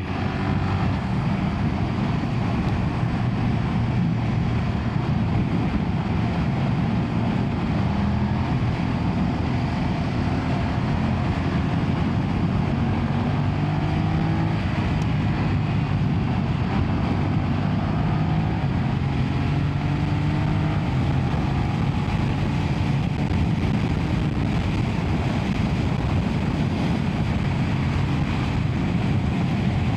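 BMW F900R's 895cc parallel-twin engine running at highway speed, its note mostly steady with slight rises and falls in pitch, over steady wind noise.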